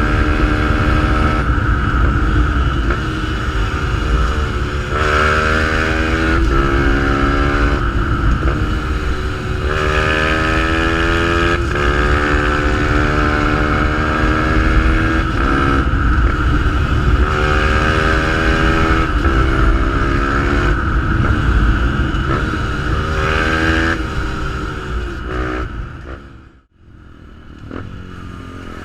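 Fantic 125 supermotard with a GPR exhaust being ridden: the engine revs up again and again with short breaks between the rises as it shifts through the gears. The sound falls away sharply near the end, then picks up again.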